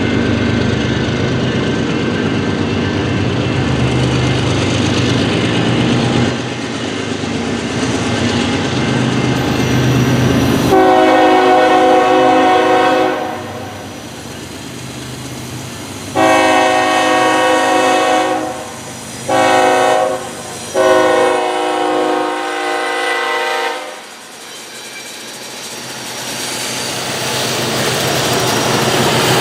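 Diesel freight locomotive passing with a low rumble, then its multi-note air horn sounds the grade-crossing signal: long, long, short, long. Train noise builds again near the end.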